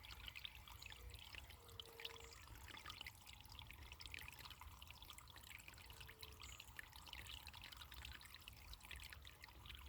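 Faint running water trickling and splashing steadily, with a dense patter of small droplet sounds over a low rumble.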